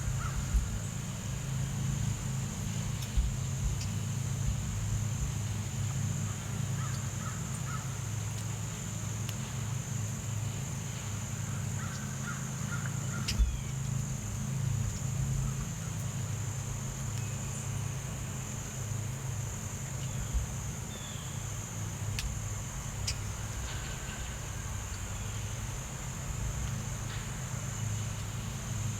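Outdoor ambience: a steady high-pitched insect drone, with a few short bird calls and a low steady hum underneath.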